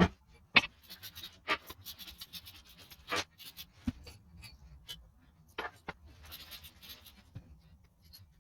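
Hand work on engine parts: irregular clicks and knocks, with scraping or rubbing about a second in and again near the end.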